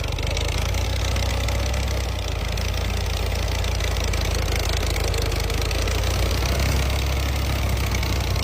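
Fiat Ghazi farm tractor's diesel engine running steadily with a deep, even rumble.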